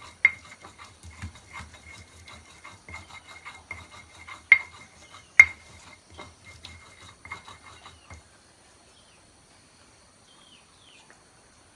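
A kitchen utensil tapping and scraping against a pot or dish during cooking, about two to three sharp strikes a second with a brief ring, two louder knocks in the middle. The strokes stop about eight seconds in.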